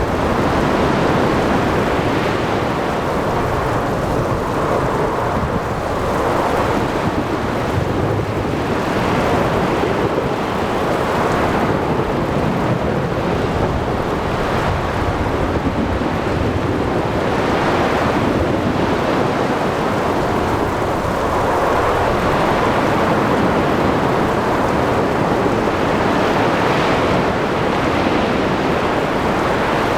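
Ocean storm ambience: a steady wash of waves surging and breaking every few seconds, with rain and wind, and a low thunder rumble underneath.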